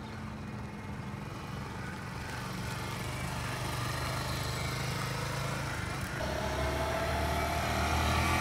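Motorcycle engine running and gradually growing louder. About six seconds in the engine note deepens and a whine rises slowly, as the bike pulls away under throttle.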